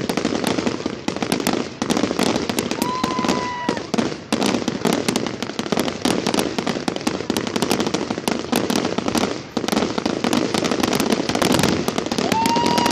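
Fireworks going off in a dense, continuous barrage of crackles and bangs, with a brief whistle about three seconds in and another near the end.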